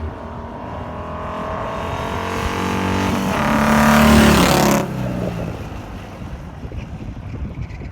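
Ural motorcycle with an 800 cc Dnepr flat-twin engine revving hard, growing louder and higher for about four and a half seconds, then cutting off suddenly just before five seconds. A quieter engine sound carries on after that.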